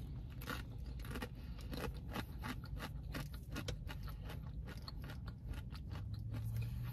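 A person chewing food close to the microphone: a steady run of many small, irregular clicks.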